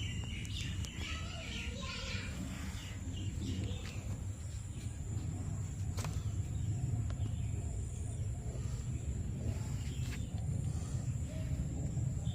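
Outdoor ambience: birds chirping in the first few seconds over a steady low rumble, with a thin steady high-pitched tone throughout and a couple of sharp clicks later on.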